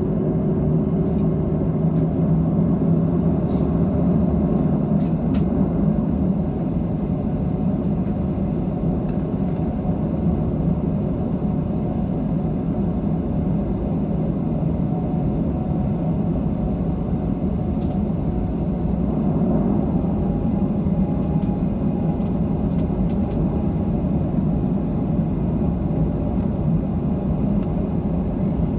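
Steady rumble of a Boeing 737-700's CFM56-7B jet engines and airflow, heard inside the cabin, with a few steady humming tones. A slightly higher hum comes in about two-thirds of the way through.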